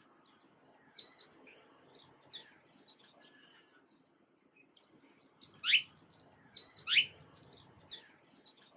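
Small birds chirping and calling in short, scattered notes, with two loud sweeping calls about a second apart past the middle.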